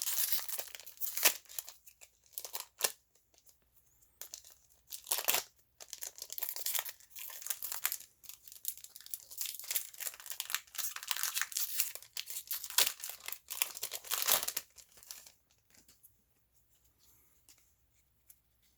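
Foil trading-card booster pack wrapper being torn open and crinkled by hand: a run of irregular rips and rustles that stops a few seconds before the end.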